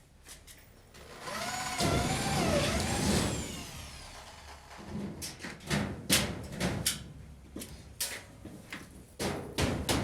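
A motor whines for about two seconds with a wavering pitch, then winds down. It is followed by a run of irregular knocks and clatter.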